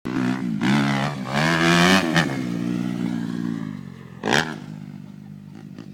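Motocross bike engine revving up and down a few times, then running steadier and fading away. A short sharp clatter about four seconds in.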